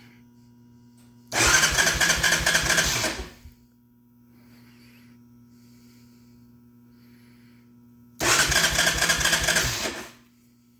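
A 1988 Honda 350D's engine cranked over twice, about two seconds each time, without firing. This is a no-start with no spark at the plug, which the owner suspects is a bad CDI box.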